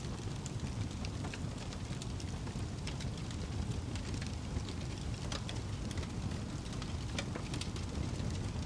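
Wood fire crackling in a fireplace: irregular sharp pops and snaps, several in quick succession in places, over a steady low rush.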